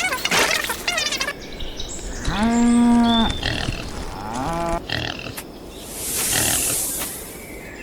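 A drawn-out animal-like call, held steady for about a second, then a shorter falling one. Near the end a hissing whoosh swells and fades.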